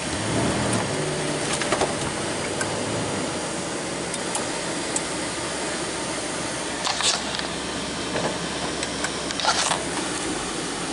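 Truck running with a steady hum while snow is scraped off its windows: a few short scraping strokes, the loudest about seven and nine and a half seconds in.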